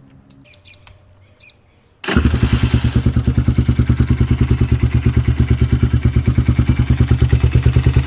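Dirt bike engine catching about two seconds in and settling straight into a steady idle with a fast, even pulse. A few faint clicks come before it starts.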